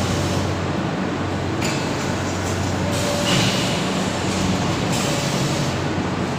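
Polystyrene foam plate and dish forming machine running: a steady mechanical drone with a low hum, its higher noise rising and falling every second or two as the machine cycles.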